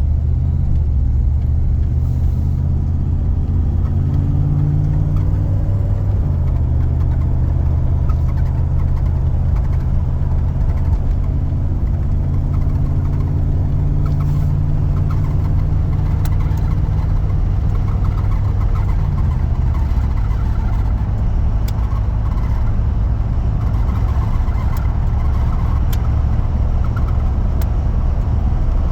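Chevrolet Camaro IROC-Z's V8 engine running at idle, its note shifting a little now and then, with a faint squeal over it that the owner cannot identify; the car had sat unused for weeks to months.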